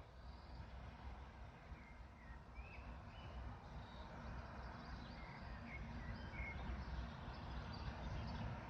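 Birds chirping in short calls over a faint low rumble that slowly grows louder: a ChME3 diesel shunting locomotive approaching with its work train.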